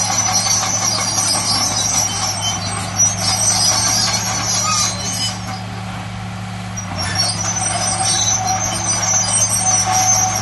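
Heavy diesel earthmoving machinery running steadily with a low, even engine drone. High squeaking and hissing sounds over it fade for about a second and a half in the middle, then return.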